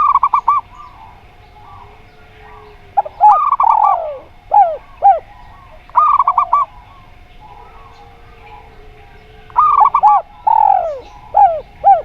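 Perkutut (zebra dove) and derkuku dove cooing in turn. Quick runs of four or five short notes come three times, and twice a longer swooping coo is followed by two short notes.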